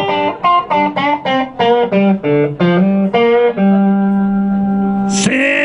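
Blues guitar fill between sung lines: a run of quick single notes, then one long held note near the end.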